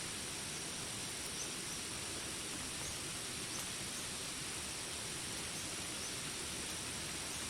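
Steady rain hiss in a jungle ambience, with a continuous high insect drone and a faint short high chirp repeating about once a second.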